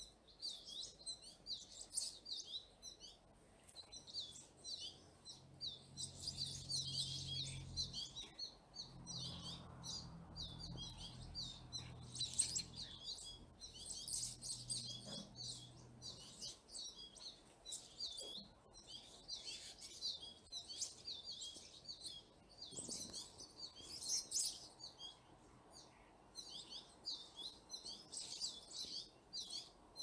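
Many birds chirping and twittering, short high calls overlapping one another without a break. A faint low hum sits underneath through the first half.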